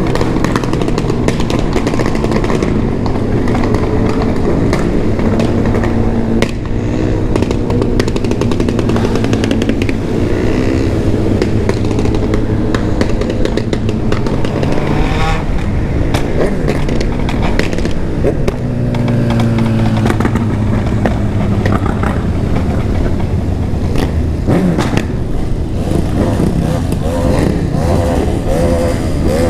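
Several remapped sport motorcycles running hard together, their engines revving up and easing off again and again, so the pitch climbs and falls.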